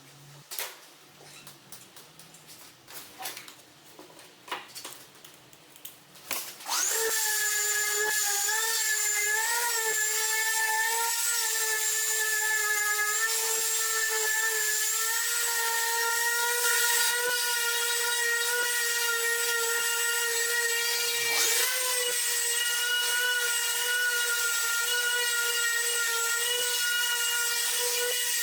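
A few light clicks and knocks, then about seven seconds in a power tool's electric motor starts and runs with a loud, steady whine. Its pitch wavers and dips briefly about twenty-one seconds in.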